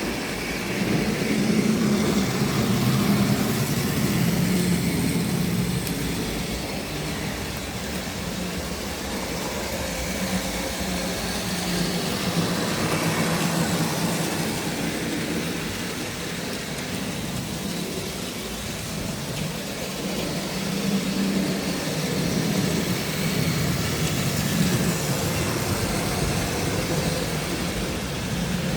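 A Tri-ang model railway locomotive running along the track: a steady electric motor hum with wheel and rail noise, swelling and easing slowly as it goes.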